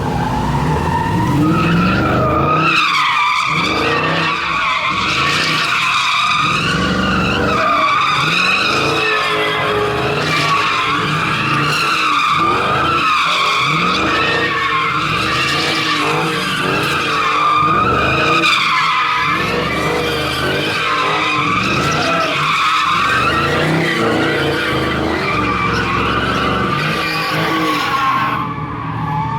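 A car's tires squealing without a break as it slides and spins, the squeal wavering in pitch, with its engine revving up and down beneath it.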